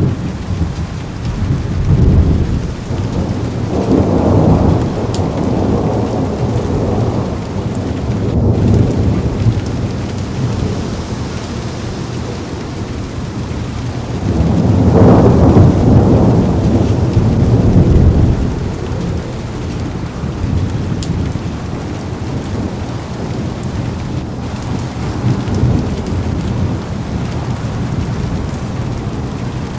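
Heavy rain falling on a car window in a thunderstorm, with rolling thunder over the steady rain: one rumble swells about four seconds in and a longer, louder one about halfway through.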